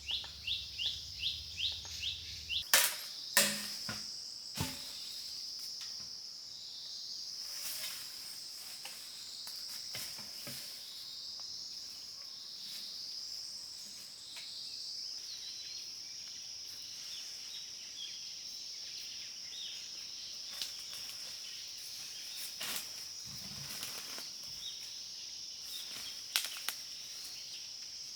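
Forest ambience. A bird gives a rapid run of short falling chirps, about four a second, for the first couple of seconds, and a few sharp knocks follow around three seconds in. After that a steady high insect drone runs on, with scattered light clicks.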